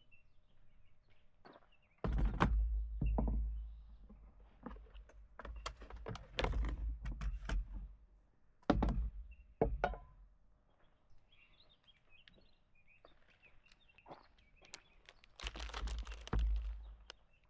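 A series of thunks and knocks, several heavy ones with a low rumble: about two seconds in, around six to seven seconds, near nine seconds and again near the end.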